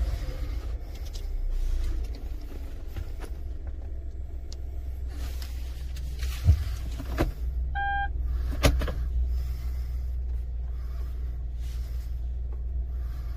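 Kia Morning 1.0 three-cylinder engine idling steadily in park, heard from inside the cabin as a low rumble. A few sharp clicks and one short electronic beep, about eight seconds in, sound over it.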